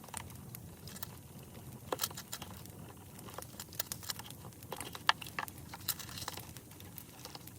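Crackling campfire: irregular sharp pops and snaps over a low steady rush of burning.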